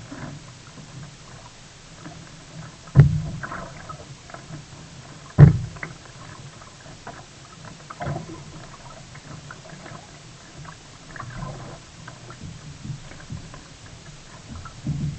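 Sea kayak on the water: irregular paddle splashes and water sloshing. Two sharp thumps about three and five and a half seconds in are the loudest sounds, with lighter knocks later.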